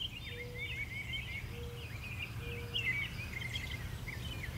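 Birds chirping in many quick, high, short calls over a steady low rumble, with a few short, low held notes in the first few seconds.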